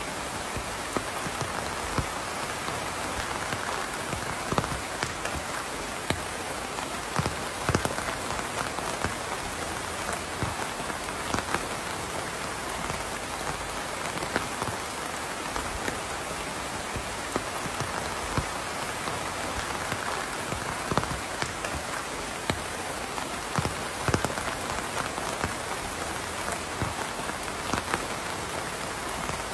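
Steady rain falling, an even hiss with many distinct drops pattering and tapping on a surface.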